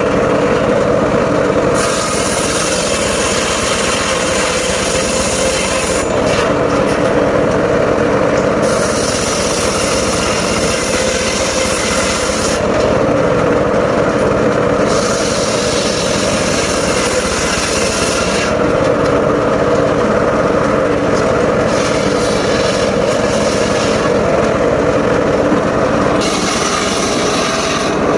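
Mobile circular sawmill running steadily, its blade ripping through logs in repeated passes: a high-pitched cutting hiss rises over the engine for a few seconds at a time, then drops back to the engine alone, about five times.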